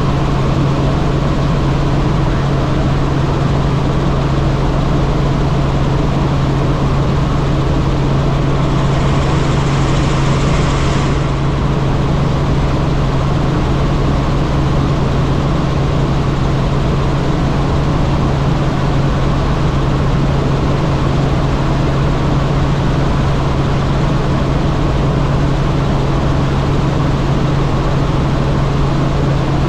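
Helicopter in flight: a loud, steady rotor and engine drone with a constant low hum and a brief burst of hiss about nine seconds in.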